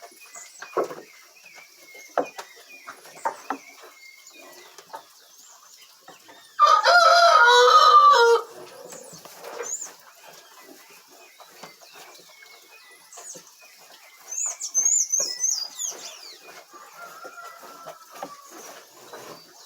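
A rooster crows once, loud and lasting about two seconds, a third of the way in. Scattered short clicks sound throughout, and there are high chirps near the end.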